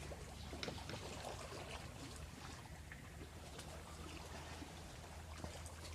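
Seawater splashing and trickling with scattered small drips and crackles, over a low steady rumble.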